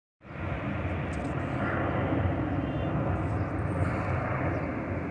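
Steady rumble of an airliner's engines and airflow, heard from inside the passenger cabin.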